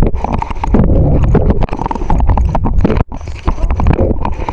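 Heavy low rumble with rapid, irregular knocking and rattling, as from a camera carried on a moving bicycle over rough ground; it drops out briefly about three seconds in.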